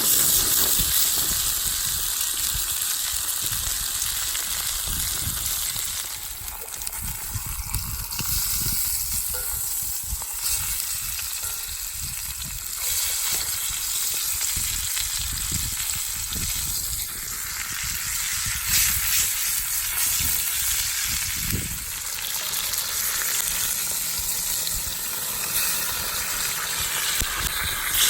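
Beef steak frying in a hot pan with butter, a steady crackling sizzle that runs on without a break.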